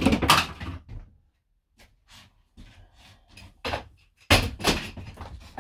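Camper van interior fittings being broken out by hand: a burst of cracking and banging at the start, scattered small knocks, then another loud cluster of cracks and bangs about four seconds in.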